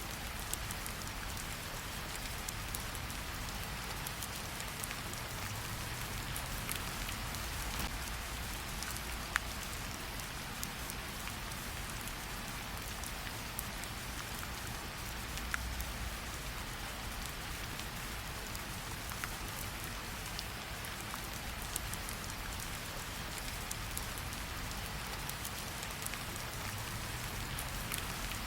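Steady rain falling, an even hiss with a low rumble underneath and a few scattered sharp ticks.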